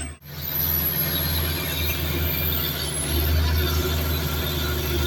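Heavy diesel earthmoving machine, a bulldozer or excavator, running steadily under work.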